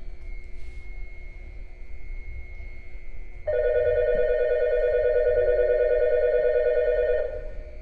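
An electronic station platform bell sounds a loud, rapid warbling ring. It starts suddenly a few seconds in and stops after about four seconds, over the steady low hum of an underground station.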